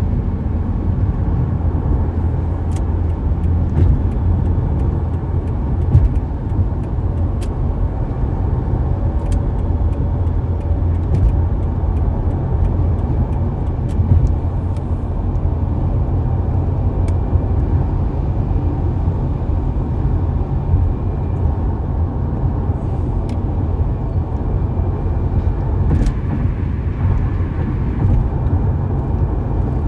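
Steady low rumble of a car driving, road and engine noise with no change in pace, with a few faint scattered clicks.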